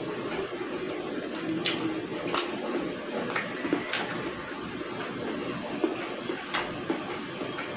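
Close-up chewing of fried fish and rice, with wet mouth and lip-smacking clicks at irregular moments, about five in all, over a steady low hum.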